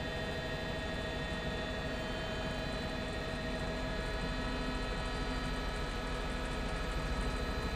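Helicopter running steadily: a whine of many even tones over a low, pulsing rotor drone.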